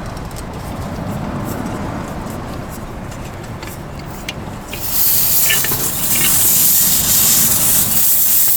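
A low rumbling background with a few faint clicks. About five seconds in, a loud steady hiss starts suddenly, with a few clicks just after it starts: butane gas flowing from an Iwatani portable cassette gas heater as it is turned on and lit.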